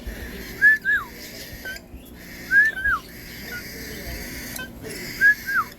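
A caged pet bird calling: a loud whistled call, each a quick rising note followed by a falling one, repeated three times about every two seconds.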